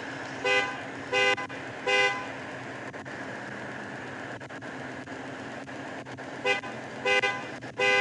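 Vehicle horn honked in two sets of three short blasts, over a steady hum.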